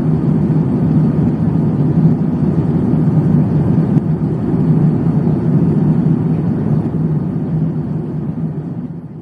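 Steady low rumble of engine and airflow noise inside the cabin of a jet airliner in cruise, with a constant hum under it; it fades down near the end.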